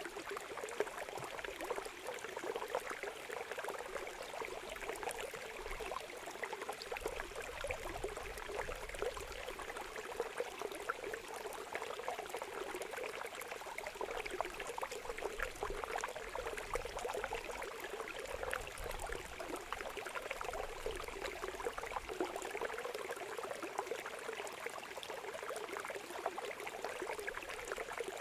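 Steady trickling, babbling water with many small splashing ticks, like a little stream or fountain, with no birdsong over it.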